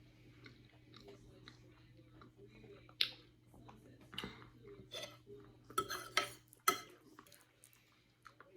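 A person chewing lasagna close to the microphone, with wet mouth smacks. A few sharp clicks come in the second half.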